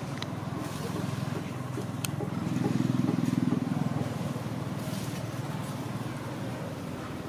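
A low engine rumble that grows louder about two and a half seconds in and fades again about a second and a half later.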